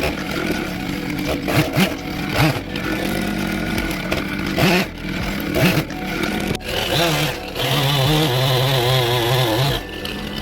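Chainsaw carving wood, revving up and down repeatedly, then held at a steady high speed for a couple of seconds in the second half.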